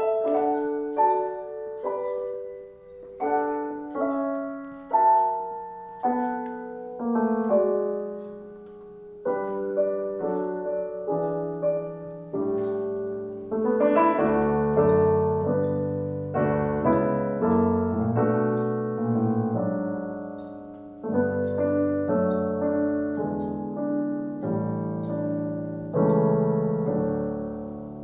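Piano playing a run of chords, each struck and then left to ring and fade; lower notes fill in from about twelve seconds in.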